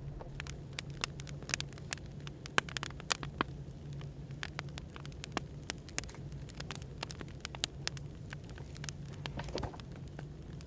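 Wood fire crackling with many irregular sharp pops, over a steady low background hum.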